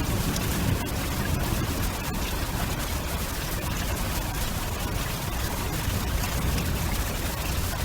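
Steady storm noise: a continuous rush of rain and wind with a deep rumble underneath and fine crackling ticks on top.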